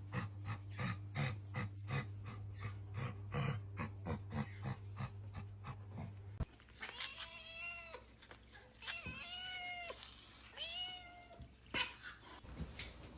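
A domestic cat meowing three times, each call about a second long, rising and then falling in pitch. Before the meows comes a rapid run of regular ticks, about three a second, over a steady low hum.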